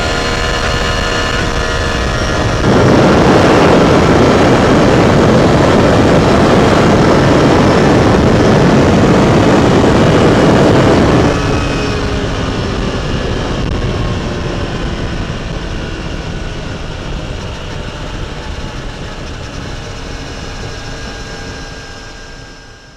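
Triumph Tiger Sport 800's three-cylinder engine and exhaust running under way. A loud rush of wind and engine noise starts about three seconds in and stops suddenly about eleven seconds in. The engine then carries on, slowly getting quieter, and fades out at the end.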